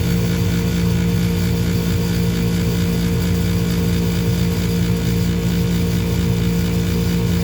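Furnace motor running with a steady hum and a rough, fluttering rattle underneath, the noise the owner blames on a worn motor bearing.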